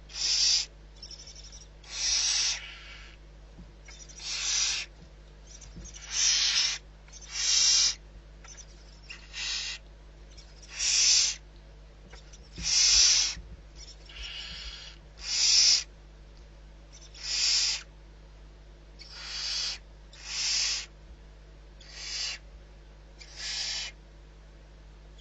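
Barn owl giving a run of harsh hissing calls, each a breathy hiss of under a second, repeated about once every second and a half.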